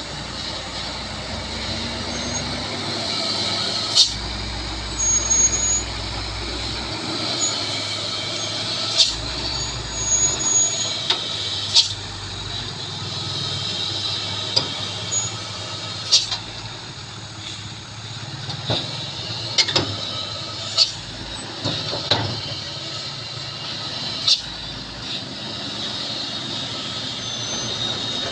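Truck driving through a bend: a steady run of engine and road noise with a hiss, broken by many short, sharp knocks and clanks at irregular intervals.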